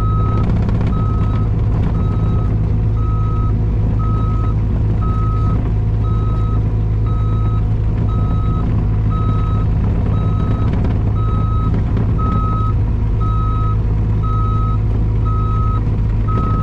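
Mini excavator's diesel engine running steadily under load, with its travel alarm beeping about once a second as the machine moves.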